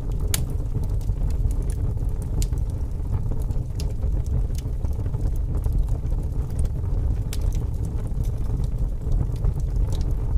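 Wood fire burning, with sharp irregular crackles and pops about once a second over a steady low rumble of strong wind.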